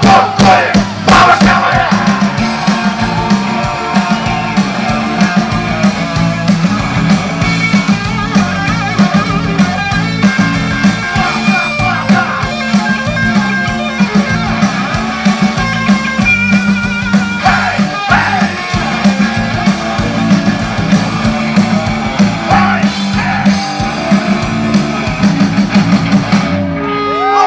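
Rock band playing live, loud and steady, with electric guitar over a repeating bass line.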